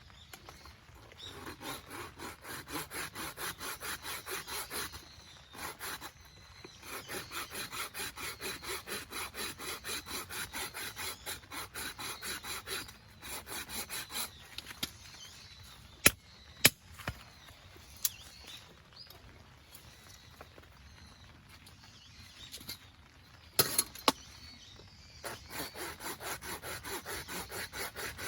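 Hand saw cutting firewood in runs of quick, even back-and-forth strokes, with pauses and a few sharp knocks of wood partway through.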